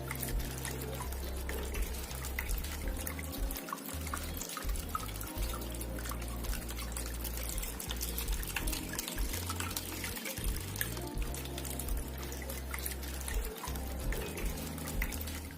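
Water trickling and splashing steadily in a small tabletop waterfall fountain, with many small drips, over quiet background music.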